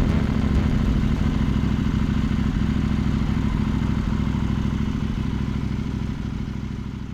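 KTM 790 Duke's parallel-twin engine idling steadily through a LeoVince LV-10 slip-on exhaust, fading out near the end.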